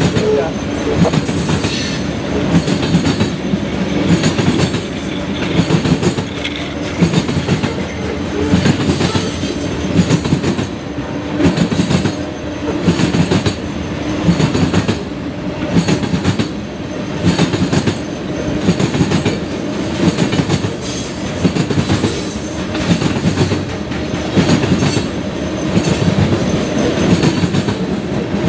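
Loaded covered hopper cars of a freight train rolling past, their wheels clattering over the rail joints in a steady rhythm that swells as each car's trucks go by.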